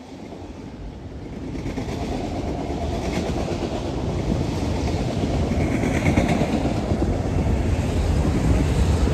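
Freight train rolling past, steel wheels clattering on the rails, growing louder over the first couple of seconds and then holding steady.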